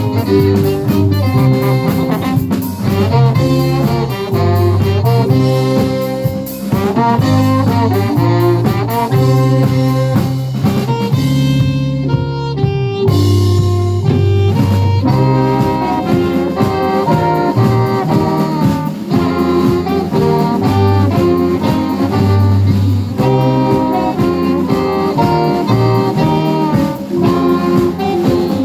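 A live band playing a jazzy pop tune, with saxophone carrying the melody over bass and drums. The cymbals drop out briefly about halfway through.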